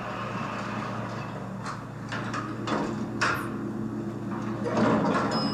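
Lift sound effect: a steady low machine hum with a few short sliding noises over it, and a thin high tone coming in near the end.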